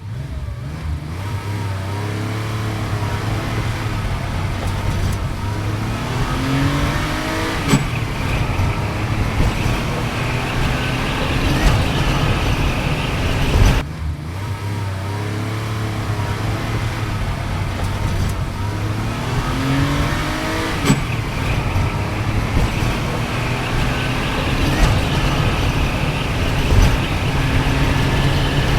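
A vehicle engine running steadily, with revs rising and falling a few times. There is an abrupt cut about 14 s in, after which the same stretch of engine sound plays again.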